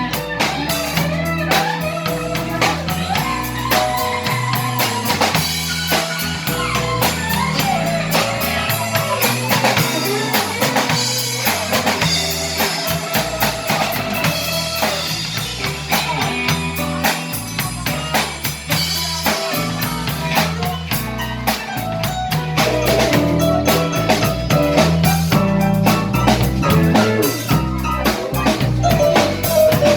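A live band playing a song, with a drum kit keeping a steady beat under a moving bass line and melodic parts. It gets somewhat louder about two-thirds of the way through.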